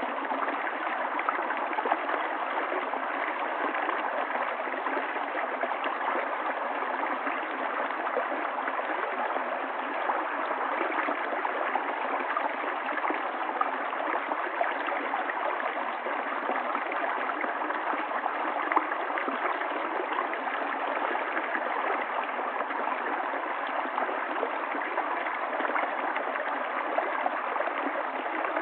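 River water flowing and gurgling steadily over rocks, a continuous rushing with small splashes throughout.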